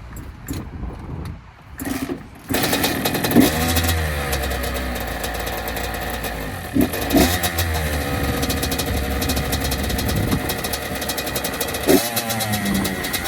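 A 2006 Honda CR85's two-stroke single-cylinder engine catches about two and a half seconds in and keeps running, with a few short throttle blips. It is a cold start, with the choke that will not stay out held on by hand.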